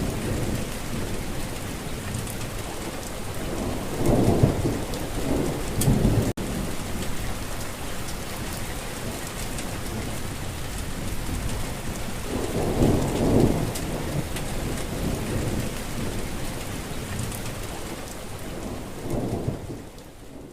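Steady heavy rain with low thunder rumbles swelling up three times: about four seconds in, around thirteen seconds, and just before the end. There is a momentary break about six seconds in, and the rain fades out at the very end.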